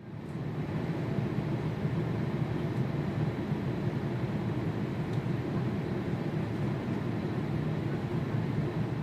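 Jet airliner engines running, a steady low rumble with no rise or fall, fading in at the start.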